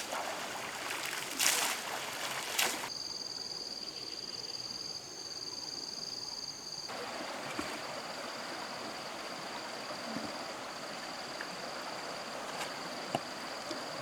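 Flowing water with a steady high-pitched insect trill over it, and two short rustling bursts in the first few seconds.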